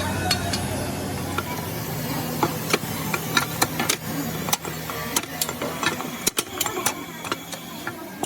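A machine running with a steady low hum, while sharp clicks and knocks come at irregular intervals from about two seconds in.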